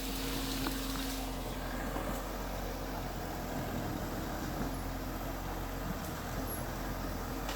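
Diesel engine of heavy earthmoving machinery running steadily under work, a continuous low hum. An added tone in the first second or so fades out.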